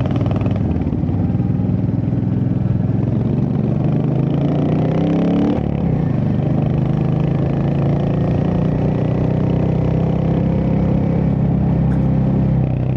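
Royal Enfield Hunter 350's single-cylinder engine running under way; its note rises as the bike accelerates about four seconds in, drops sharply at a gear change about halfway through, then carries on steadily.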